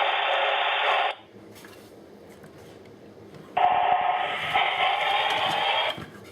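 Steam-hiss effect from a model steam locomotive's sound decoder, played through its small onboard speaker. The hiss cuts off sharply about a second in, then comes back for about two and a half seconds before cutting off again.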